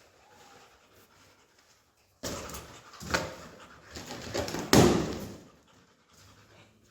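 Balloons being bitten and burst by a young Belgian Malinois: sudden sharp bangs, starting about two seconds in, the loudest about five seconds in.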